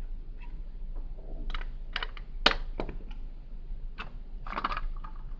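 Plastic Lego pieces clicking and rattling as they are handled and pressed together, a few separate sharp clicks at irregular times, the loudest about halfway through.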